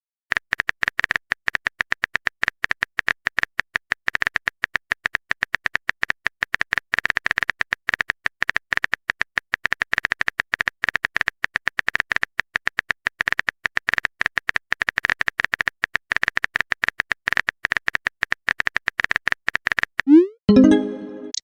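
Phone keyboard typing sound effect: rapid, even clicks, many a second, going on for about twenty seconds. Near the end they stop, followed by a short rising swoosh and a brief tone.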